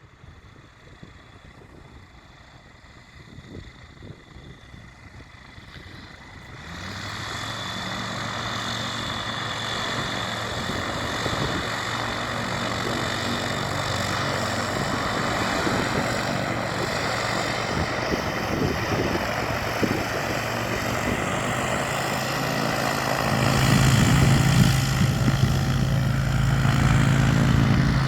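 Dimona motor glider's piston engine and propeller running while the aircraft taxis. The engine sound comes in about six seconds in and holds steady, then gets louder with a stronger low note about 23 seconds in.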